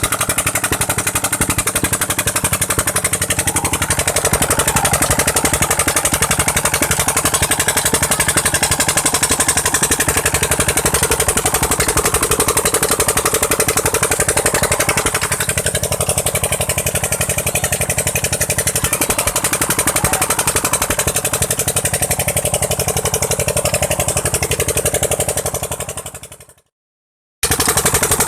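Petter engine running on LPG to drive a tube-well pump, with a loud, steady, rapid exhaust beat. Near the end it fades away, is silent for a moment, then returns at full level.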